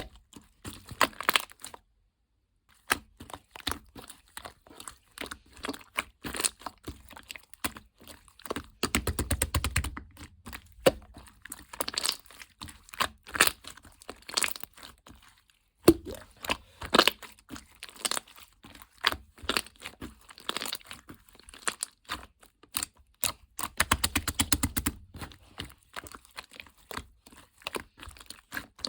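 Paper and plastic handled close up: quick crinkling, crackling and tearing sounds in dense runs, with two brief pauses.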